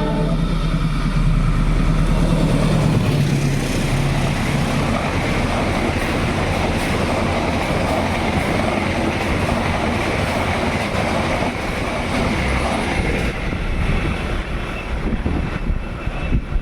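A train running close by on the rails: loud steady rumble and rushing of wheels and carriages, with a diesel locomotive's low drone in the first few seconds.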